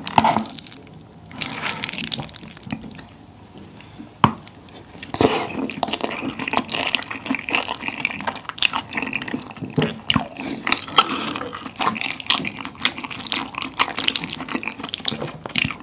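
Close-miked wet chewing and mouth smacking while eating saucy spicy tteokbokki with glass noodles and rice, along with the clicks of a wooden spoon stirring and scraping in the bowl. The sound eases off for a couple of seconds near the start, with one sharp click, then turns busy again.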